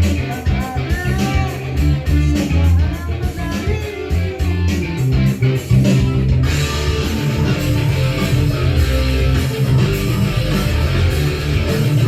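Band music led by electric guitar over bass guitar, with a steady beat. About six and a half seconds in the sound fills out with a bright, continuous hiss across the top, as the song moves into a louder section.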